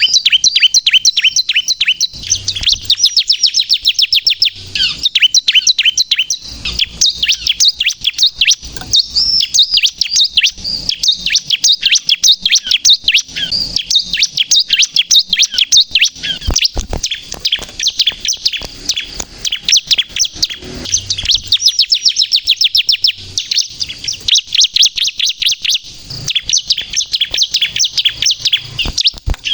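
Bar-winged prinia (ciblek) singing loudly and continuously: fast runs of high, sharp chirps, many to the second, broken by short pauses.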